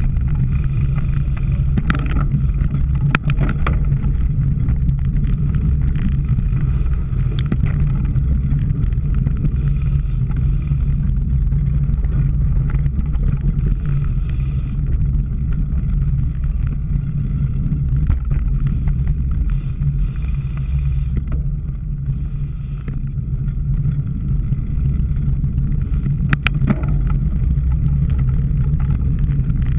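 Steady low rumble of a cyclocross bike being ridden, with wind and tyre noise on a bike-mounted camera and a few sharp clicks and rattles from the bike.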